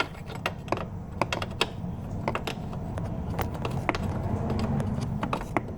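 Ratcheting combination wrench clicking irregularly as it turns a 13 mm nut off the strut tower mount, over a steady low hum.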